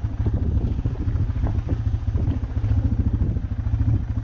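A vehicle engine running at low speed, with rapid low firing pulses and some rattling.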